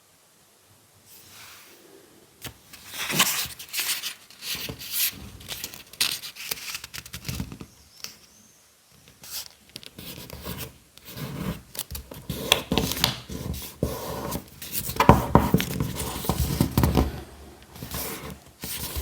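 Paper being worked by hand for a papercraft model: irregular crinkling, rubbing and scraping of the sheets, in two busy stretches with a short lull between them.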